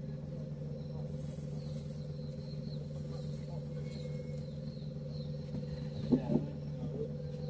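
Steady engine hum with a held low tone, with faint high chirps above it and two short knocks about six seconds in.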